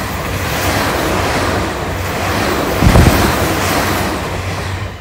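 A train running past close by at speed: a loud steady rush of wheel and air noise over a low hum, with wind buffeting the microphone and a heavy low thump about three seconds in.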